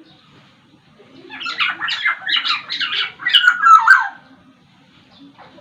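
Black-naped oriole (Sumbawa kepodang) giving a rapid run of about ten harsh, grating notes. The run starts about a second in and lasts about three seconds.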